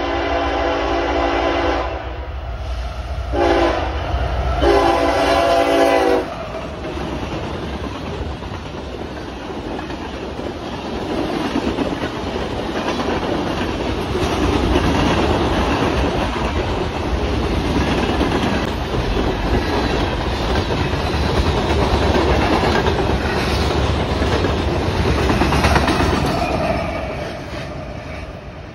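A CSX diesel freight locomotive sounds its air horn three times: a long blast, a short one, then a longer one. A long string of freight boxcars then rolls past, with steady wheel clatter and rumble that fades near the end.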